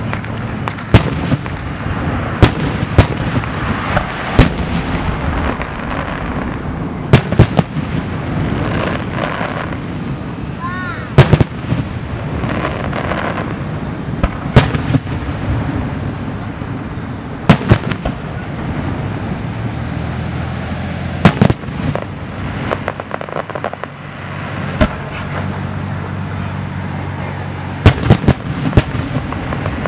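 Aerial firework shells bursting in a fireworks display: irregular sharp bangs a second or few apart, some in quick clusters of several reports, over a steady noise between the bursts.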